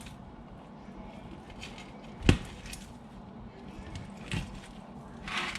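A few light knocks and clinks of handling, as of utensils or dishes, the sharpest about two seconds in and a softer one a couple of seconds later, with a brief rustle near the end.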